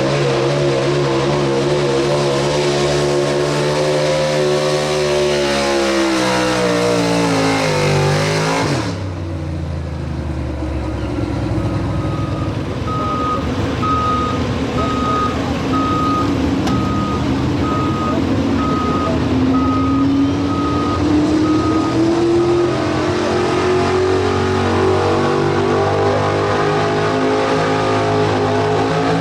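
Pro Street 4x4 pulling truck's engine running hard at high revs, then winding down in pitch about six to nine seconds in as the run ends. After a sudden change, a backup alarm beeps steadily for about ten seconds while an engine's pitch slowly rises.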